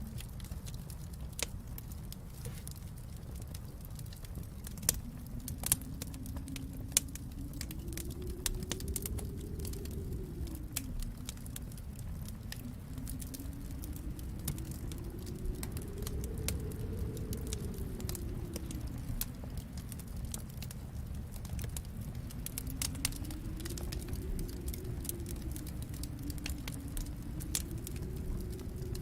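Wood fire crackling, with irregular sharp pops and snaps, over a low rush of storm wind that swells and eases in slow waves every several seconds.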